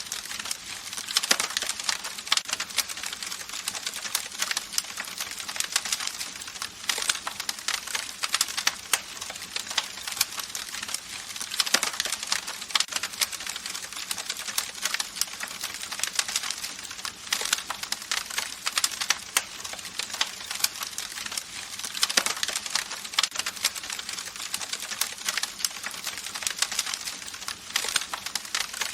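Campfire crackling: many small irregular snaps and pops of burning wood over a steady hiss, with short flurries of louder crackles every few seconds.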